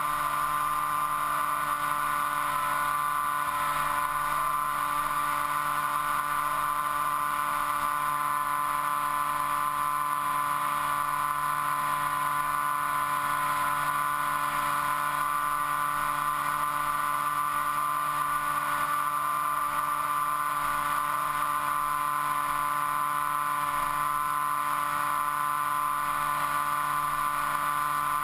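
Motor and propeller of an FPV model aircraft running at a steady speed, a constant whine heard from the onboard camera with rushing air noise beneath it.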